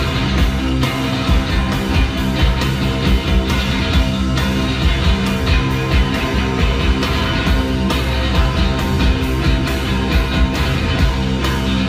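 Live rock band playing: electric guitars over drums keeping a steady beat.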